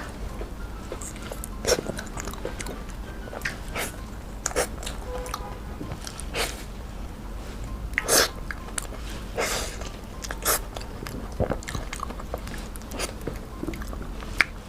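Close-miked biting and chewing of soft, creamy durian flesh: irregular wet mouth smacks and clicks, roughly one a second.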